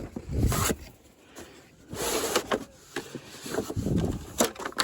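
Scraping, rubbing and a few sharp clicks as a Space-Gard furnace media air filter cabinet is worked open and the old filter is handled.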